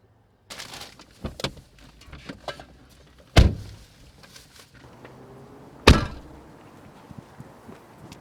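Two car doors slammed shut, about two and a half seconds apart, with rustling and light knocks of people climbing out of the car before them.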